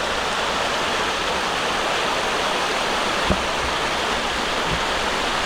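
Fast-flowing river rushing steadily below, an even hiss of water, with a couple of soft low thumps partway through.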